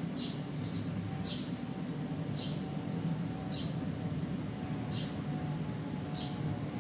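A small bird chirping, short falling notes repeated about once a second, over a steady low rumble.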